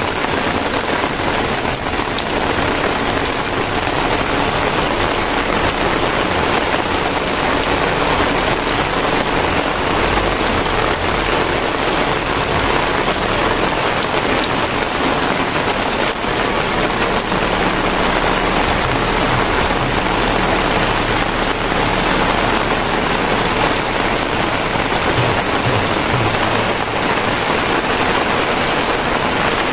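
Very heavy rain pouring down steadily, a dense even hiss of drops striking surfaces.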